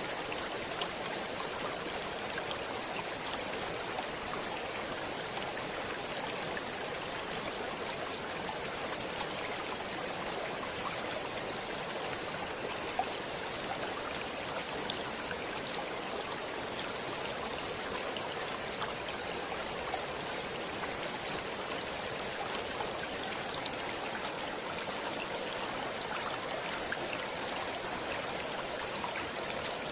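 Stream water flowing steadily: an even rush of running water with small splashes scattered through it.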